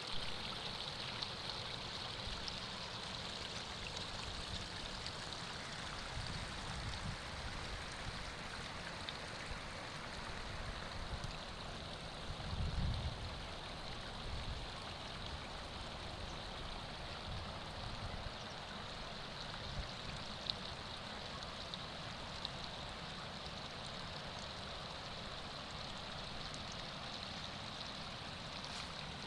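Steady rushing of a mountain stream's water over rocks, with a brief low rumble about twelve seconds in.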